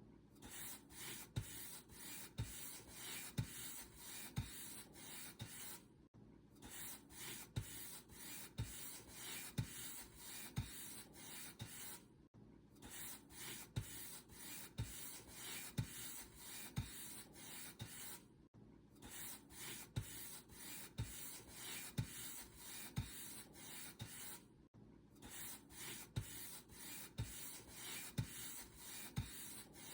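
Paint brush bristles stroking back and forth over a surface, a dry rhythmic brushing of about two strokes a second with a soft low knock on many strokes. The brushing stops briefly about every six seconds, then carries on.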